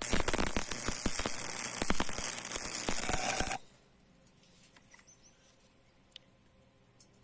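Stick-welding arc on square steel tube, crackling for about three and a half seconds and then cutting off suddenly as the arc is broken. A few faint ticks follow.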